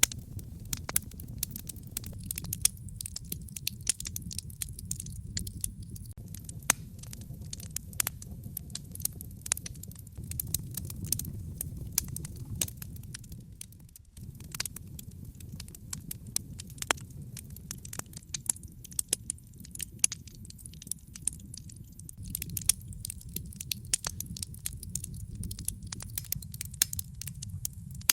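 Wood fire crackling: frequent irregular sharp pops and snaps over a steady low rumble of burning flames, the rumble dipping briefly about halfway through.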